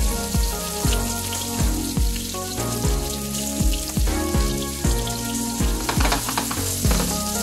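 Diced onions sizzling and frying in hot cooking oil in a frying pan, heard with background music that has a steady beat.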